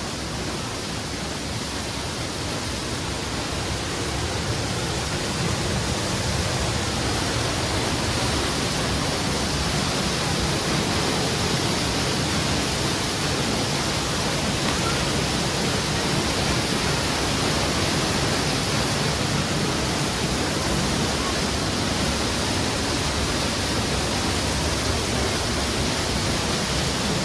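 Steady rush of Storseter Falls' water crashing down, heard up close from the path behind the fall. It grows a little louder over the first several seconds, then holds steady.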